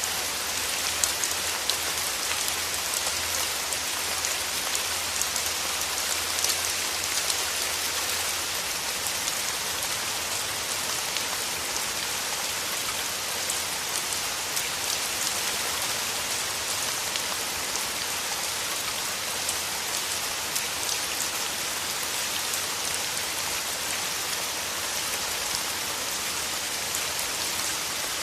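Steady rain falling through forest trees: an even hiss with a dense patter of individual drops.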